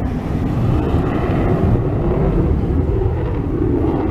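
Military aircraft flying overhead: a steady, loud engine rumble that swells a little in the middle.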